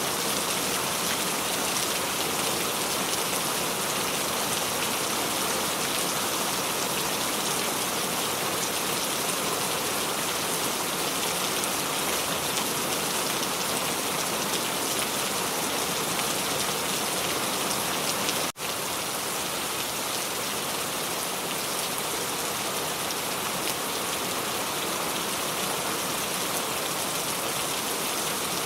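Recorded steady rain falling on a surface, an even hiss with the most energy in its higher range. About two-thirds of the way through, the sound drops out for a split second, then carries on unchanged.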